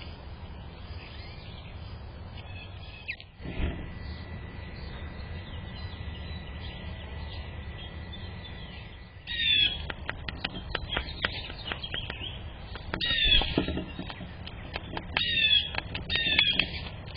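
Small birds chirping: short, high chirps that slide downward, coming in groups from about halfway through, with scattered sharp taps and a single thump earlier, over a steady low rumble.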